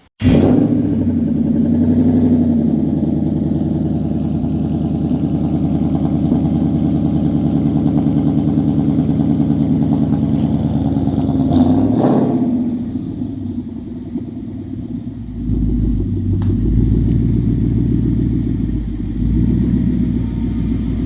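Mustang GT's 5.0 Coyote V8 engine running, just after a new clutch install, ahead of its first test drive. There is a sharp knock about twelve seconds in, and from about fifteen seconds the engine note turns to a deeper low rumble.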